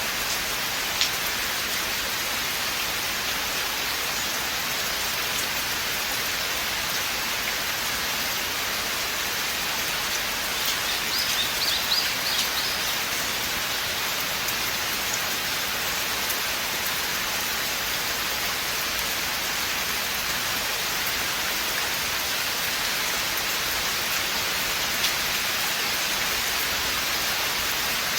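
Steady rain falling through a forest, an even hiss, with a couple of single heavier drops ticking sharply about a second in and near the end. Around eleven seconds in there is a short run of faint high chirps.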